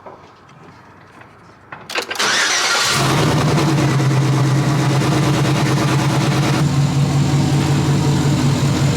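Chevrolet Silverado's engine cranking on the starter about two seconds in, catching and settling into a loud, steady idle. It runs on open headers with no exhaust system fitted, and the exhaust leak is now sealed.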